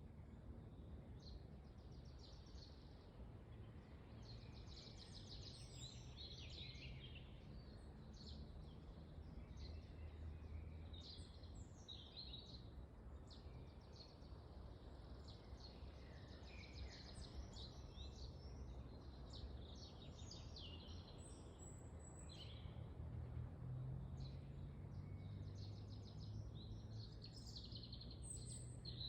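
Faint forest ambience: small birds chirping and twittering on and off over a steady low rumble of wind.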